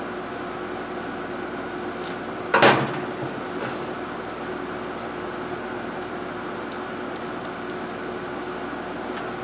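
A steady machine hum in the background, broken by a single sharp knock about two and a half seconds in and a few faint light clicks later on.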